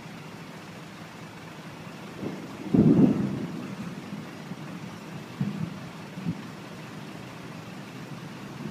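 Steady outdoor noise with a loud low rumble about three seconds in, lasting about half a second, and a few softer low thumps after it.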